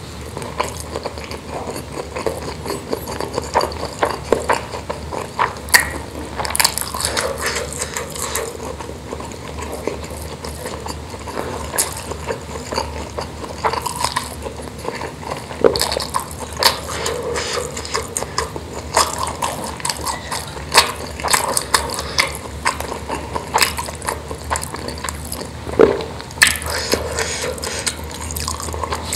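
Close-miked eating: wet chewing, lip smacks and mouth clicks as meatballs in sauce and rice are chewed, in irregular bursts of short crackles.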